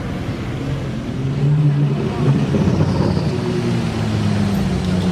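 A car's engine and exhaust running at low revs, getting louder about a second and a half in and then holding a steady low note.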